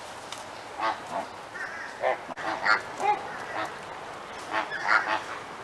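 A flock of flamingos honking: short, goose-like calls that come one after another at irregular intervals, several birds calling.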